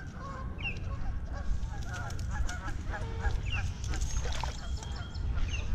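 Birds calling at a pond: a short, high, downward-sliding call repeated about every two or three seconds, with a cluster of shorter calls in the middle, over a steady low rumble.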